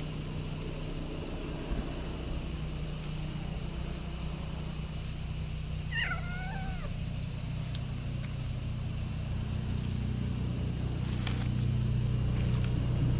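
A cat meows once, a short bending call about six seconds in, over steady high insect chirring and a low traffic hum that swells near the end.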